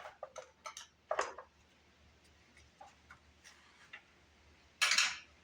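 Small metal parts and hand tools clicking and clattering during an engine teardown: a few light clicks, a sharper clack about a second in, and a louder clatter near the end.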